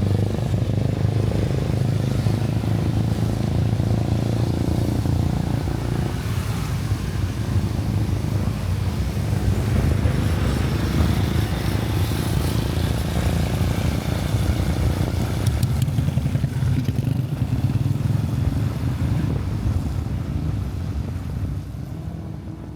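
Motorcycle engine running steadily while riding, with road and wind noise, fading out near the end.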